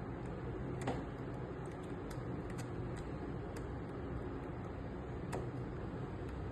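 Scattered small plastic clicks as the snap-fit casing of an air-conditioner remote is pried open along its seam and its clips unsnap, the loudest about a second in, over a steady low background hum.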